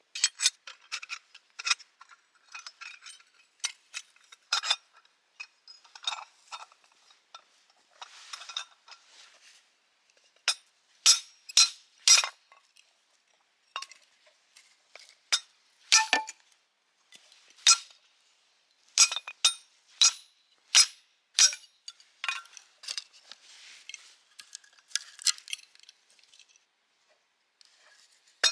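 Irregular sharp metallic clinks and taps, about two dozen of them, some ringing briefly. They fit steel parts of a kindling splitter knocking together or being struck.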